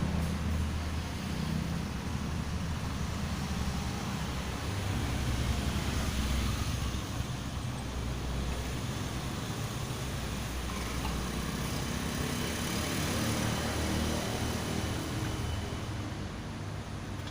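Low, steady motor-vehicle rumble that swells slightly and eases again, like road traffic going by.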